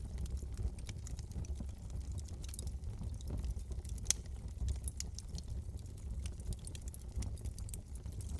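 Wood fire in a fireplace crackling: scattered small pops over a steady low rumble, with one sharper pop about four seconds in.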